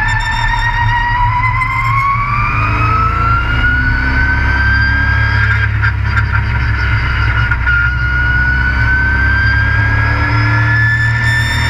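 Race truck heard from on board: the engine running under load with a low rumble and a high-pitched whine that climbs in pitch, dips slightly around the middle, then climbs again as the truck speeds up.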